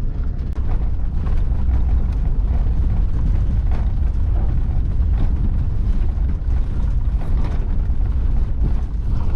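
Campervan in motion on a bumpy forest road, heard from inside the cab: a steady low rumble of engine and tyres.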